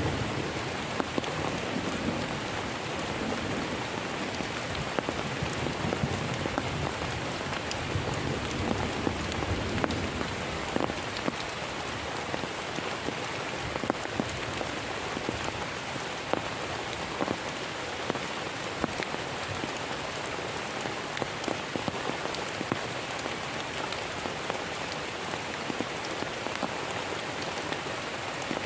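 Heavy rain falling steadily, with many individual drops striking sharply close by. A low rumble fades out over the first few seconds.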